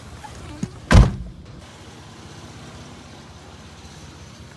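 A lighter knock, then a single heavy thump about a second in, over a vehicle engine running steadily.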